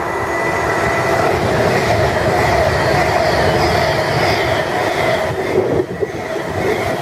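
Virgin Trains Class 390 Pendolino electric train running along the platform. A rumble grows louder over the first couple of seconds, with a steady whine on top.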